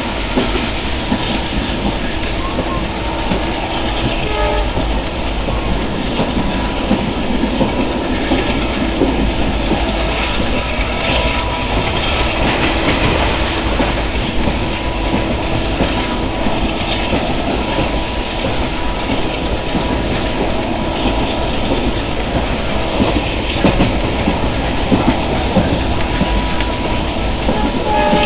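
Passenger coaches of an Indian Railways express running on the track, heard from an open coach doorway: a continuous rumble and clatter of wheels on rails.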